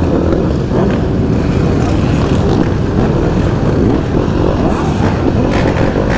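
Loud, steady motor vehicle engine noise.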